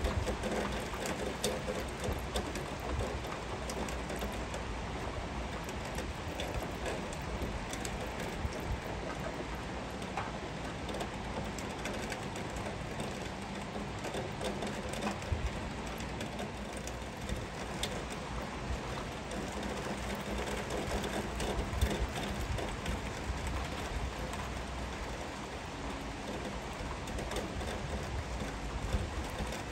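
Heavy rain falling steadily, with many small ticks of drops striking nearby surfaces over a low rumble.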